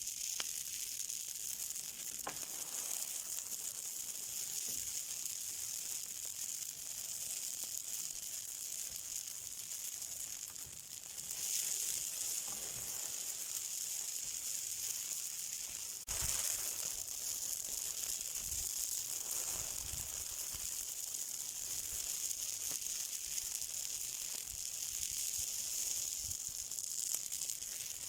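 Fire burning with a steady high sizzling hiss and a few faint crackles. It swells briefly about twelve seconds in and jumps abruptly louder about sixteen seconds in.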